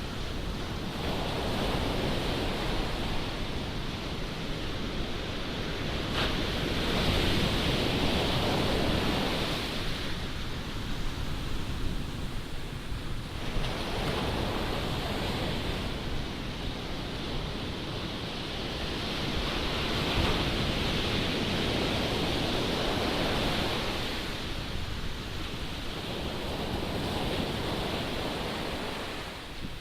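Ocean surf breaking and washing in, swelling and easing every several seconds, with strong wind buffeting the microphone in a steady low rumble.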